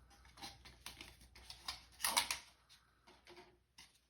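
Disposable plastic cups being set one on another into a pyramid: a series of light clicks and rustles, the loudest about two seconds in.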